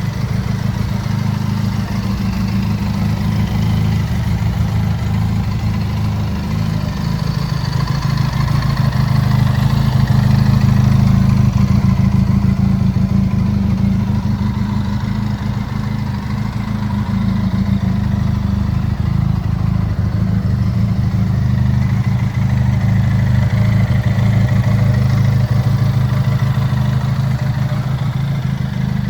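Benelli Leoncino 500's parallel-twin engine idling steadily, with only small swells in level.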